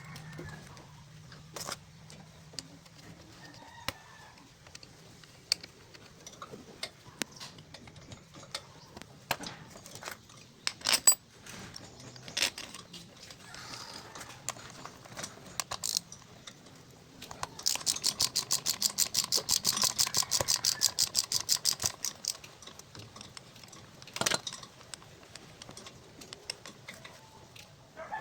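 Metal tools and starter-motor parts clicking and knocking as the starter motor is put back together by hand, with a rapid run of even clicks, about nine a second, for some four seconds past the middle.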